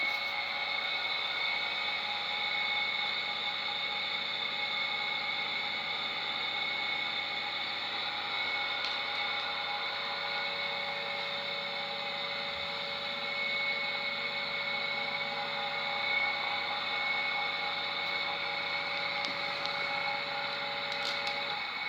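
Soviet 4AХС80В6У3 induction electric motor running steadily on 220 V, a constant whine made of several steady tones over a hiss. One of the tones drops out just before the end.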